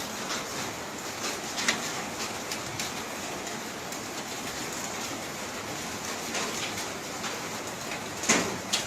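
Steady rain laden with volcanic ash and sand falling, with scattered drops ticking on nearby surfaces and a sharper tap near the end.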